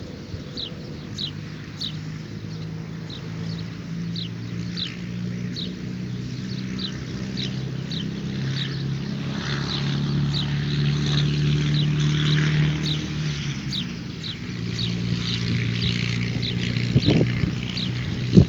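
A bird repeating a short, high, falling chirp about every half second, over the low hum of a vehicle engine that grows louder toward the middle and then eases off. Two sharp knocks near the end.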